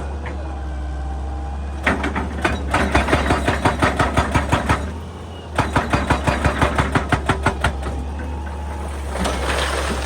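Excavator engine running steadily, with two runs of rapid, even knocks, about five a second, each lasting two to three seconds.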